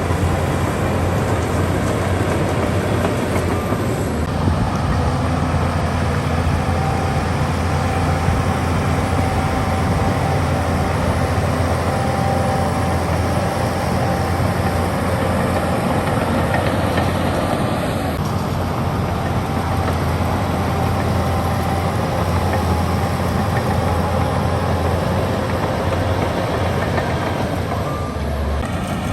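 Heavy earthmoving machine's diesel engine running steadily with a deep hum, easing off slightly near the end.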